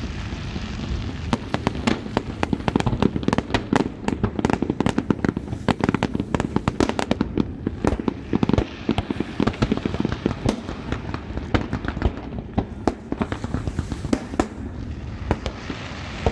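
Fireworks display: a dense, rapid barrage of sharp bangs and crackles over a steady low rumble, thinning out a little after about 10 seconds.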